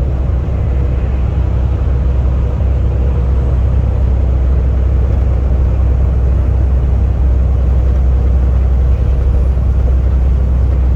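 Steady low rumble of engine and road noise inside a truck's cab while driving.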